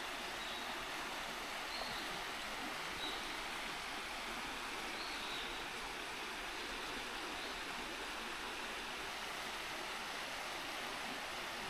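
Mountain river running steadily, a constant rushing murmur, with a few faint high bird chirps.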